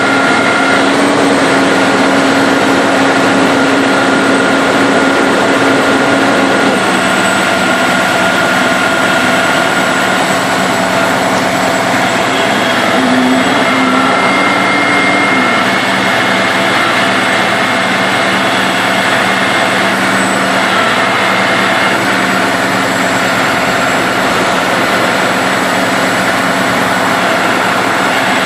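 Heavy-duty tow truck's diesel engine running loud and steady, its pitch dropping slightly about seven seconds in.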